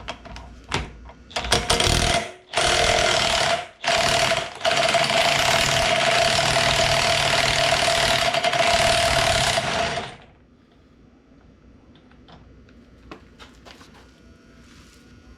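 A power tool running in a few short bursts, then continuously for about five seconds before stopping suddenly; a steady whine sits over a loud noisy rush.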